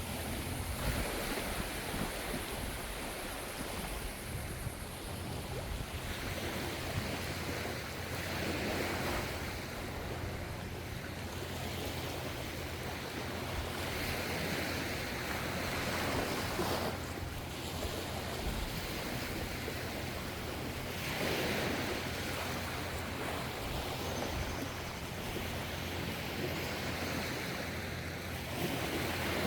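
Gentle ocean waves washing onto a shore, each surge of surf rising and falling about every six or seven seconds over a steady low rumble of the sea.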